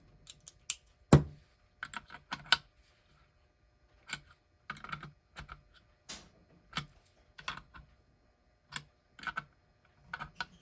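Irregular small clicks and light taps of parts being handled and fitted, with a sharper knock about a second in. A clock movement is being seated onto its dial over rubber spacers on the screw posts.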